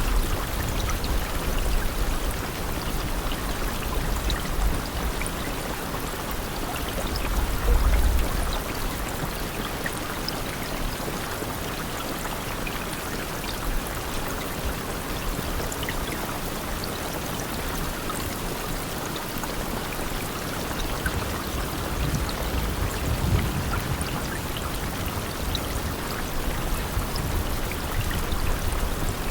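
Steady rain falling, a dense even hiss flecked with scattered individual drop hits, with a few low swells in the deep bass near the start and again later.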